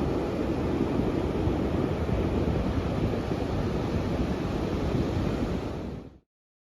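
Steady rush of wind on the microphone and surf, cutting off abruptly about six seconds in.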